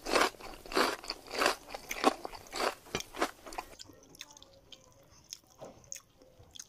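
Close-up mouth sounds of someone chewing crunchy cooked shrimp, shells and all, with a crunch about every half second. About four seconds in the crunching stops, leaving only faint small clicks.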